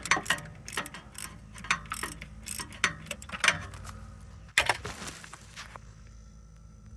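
Socket ratchet clicking in short, irregular strokes as a starter mounting bolt is turned, followed by a brief rustle about four and a half seconds in.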